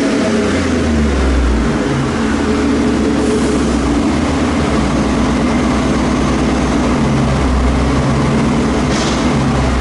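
5.3 L V8 truck engine running through a 3-inch true dual exhaust with an X-pipe and Flowmaster Super 40 mufflers during a chassis-dyno run. The revs fall away in the first second after a pull, then settle into a steady, loud, deep rumble.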